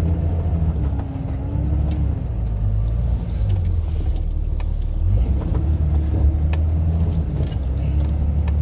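Car driving, heard from inside the cabin: a steady low rumble of engine and tyres on the road, easing a little for a few seconds in the middle, with a few faint ticks.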